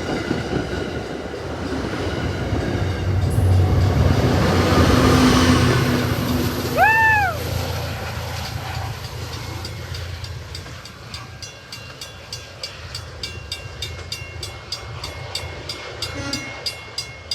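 Commuter train rumbling past, loudest about four to six seconds in, then fading away. About seven seconds in, a short pitched tone rises and falls. From about eleven seconds on, a rapid regular clicking or dinging, about three a second.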